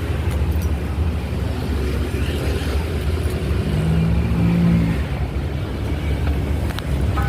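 Steady low rumble of vehicle engines and road noise, with one engine note swelling for about a second around four seconds in.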